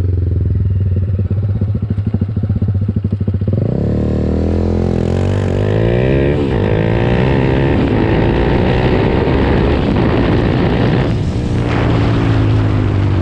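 TVS Apache RR 310's single-cylinder engine through a Yoshimura slip-on exhaust, ticking over with a fast, even thump, then revving up about three and a half seconds in and staying high, with a brief dip near eleven seconds before it picks up again. Very loud.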